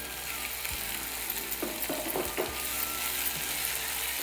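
Chicken sizzling as it fries in a pan, with a few short knocks and scrapes of a spoon stirring it.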